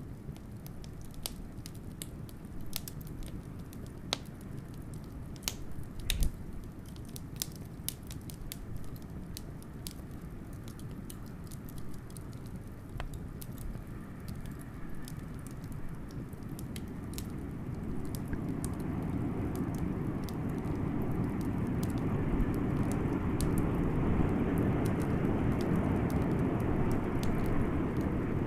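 Wood fire crackling, with frequent sharp pops, over blizzard wind; the wind swells into a louder, stronger gust during the second half.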